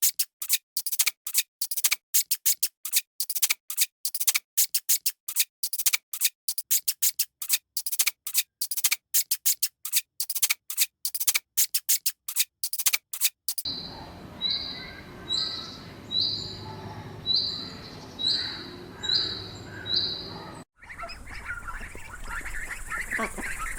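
Small birds chirping, in three cut-together parts: first a fast run of sharp chirps, then about eight even high peeps at roughly one a second, then a busier jumble of calls near the end.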